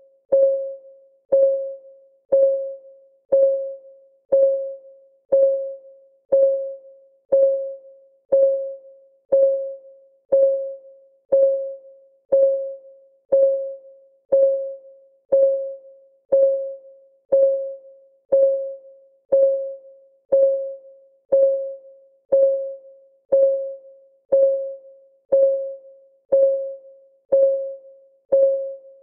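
Countdown timer's clock-ticking sound: evenly spaced ticks, about one per second, each a short click followed by a brief fading note.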